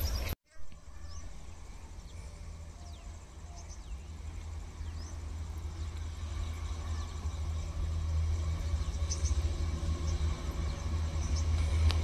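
Distant train approaching along the line: a low rumble that grows steadily louder, with birds chirping now and then.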